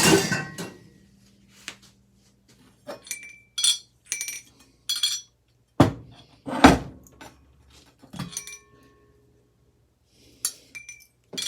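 Metal ceiling-fan parts knocking and clinking as they are handled: a sharp hit at the start, then a run of light clinks with short metallic ringing, two heavier knocks about six to seven seconds in, and a few more clinks near the end.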